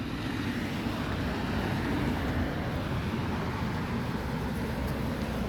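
Steady outdoor background rumble, without distinct events.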